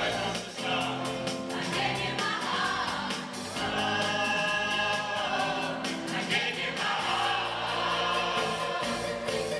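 A choir singing a 1970s pop song live, many voices holding notes together over an instrumental backing with a steady beat.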